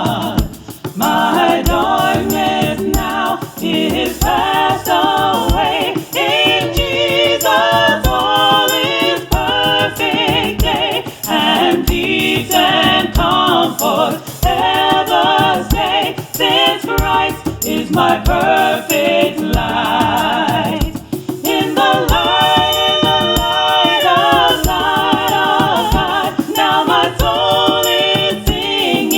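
Gospel choir singing with musical accompaniment and a steady beat.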